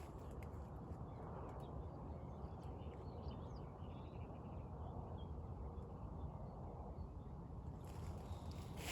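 Outdoor ambience: a steady low rumble with a few faint bird chirps through the middle.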